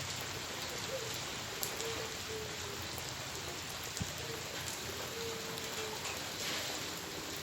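Heavy rain falling steadily: an even hiss of rain with a few sharper drops tapping on a surface.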